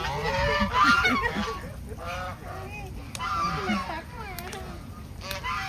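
Several geese honking, with many short overlapping calls that are loudest about a second in.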